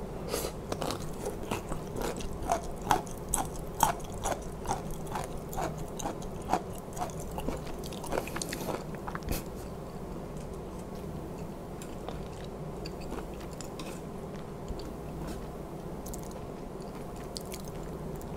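Close-miked crunchy chewing of a mouthful of crisp side-dish vegetable: sharp crunches about two to three a second for roughly the first nine seconds, then settling to quiet chewing.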